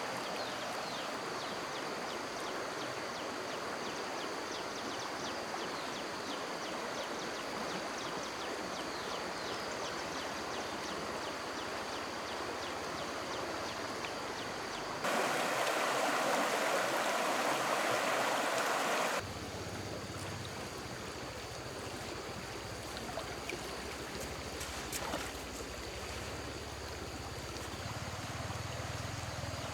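Flowing stream water, a steady rush that grows much louder for about four seconds in the middle, with a faint high steady tone above it.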